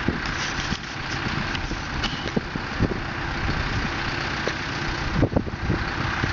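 A vehicle engine idling steadily, with a few short light knocks.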